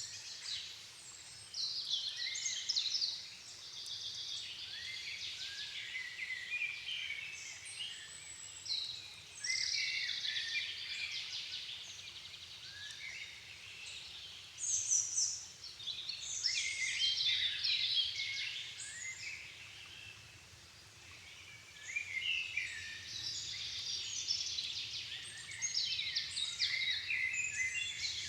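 Dusk chorus of songbirds in a floodplain forest: several birds singing at once in overlapping bouts of high, rapid warbling and chirping phrases, with brief lulls.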